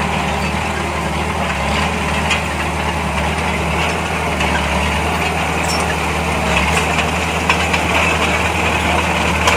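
Heavy diesel engine of an earthmoving machine or dump truck running steadily at low revs, with a few faint clicks and knocks over it.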